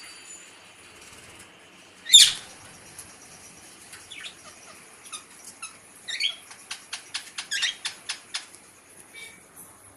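Birds chirping: a loud sharp sound about two seconds in, then a run of short chirps that comes thickest from about six to eight and a half seconds.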